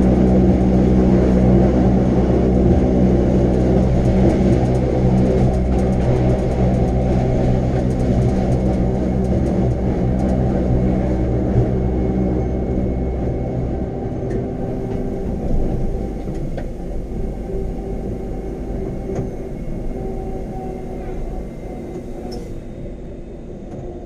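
Electric rack-railway train running with a steady multi-toned motor hum and rumble. About halfway through, the hum weakens and the sound dies down gradually.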